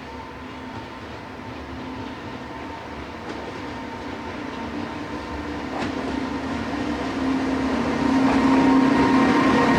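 A JR Freight EH500 electric locomotive hauling a freight train approaches, its running noise growing steadily louder, with a steady electrical hum.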